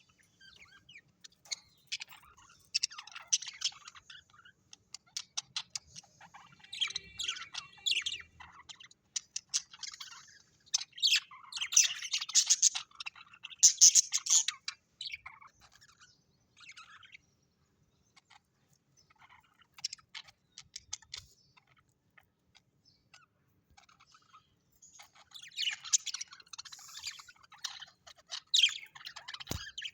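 Birds chirping and chattering in bursts of rapid, high calls, loudest in the middle, with a sparser lull of several seconds before a last burst near the end. A single sharp click comes just at the end.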